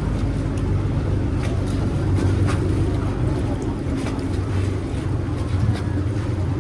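Motorboat engine running with a steady low drone on the canal.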